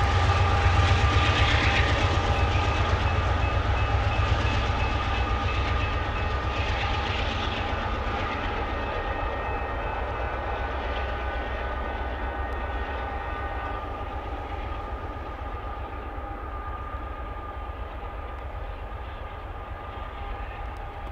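Union Pacific mixed freight train rolling past, a heavy low rumble with wheel clatter and a couple of steady high tones over it, fading gradually as the train moves on.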